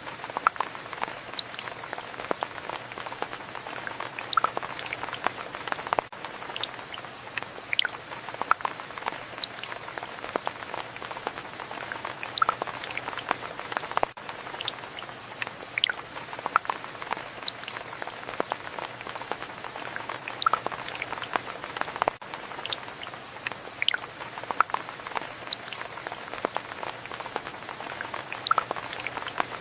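Steady rain with many individual drops ticking and pattering close by. A faint high tone falls slightly every several seconds, and the whole pattern repeats about every eight seconds like a loop.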